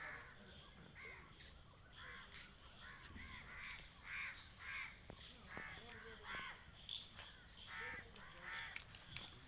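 Crows cawing repeatedly, a dozen or so short harsh calls at uneven intervals, over a faint steady high-pitched whine.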